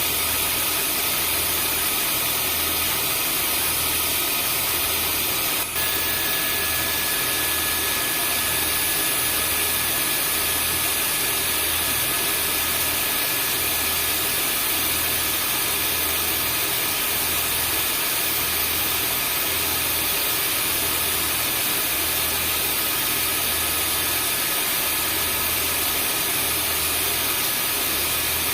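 Vacuum cleaner running steadily: a constant rushing hiss with a high motor whine over it and a low hum that pulses about one and a half times a second. There is a brief dip in the sound about six seconds in.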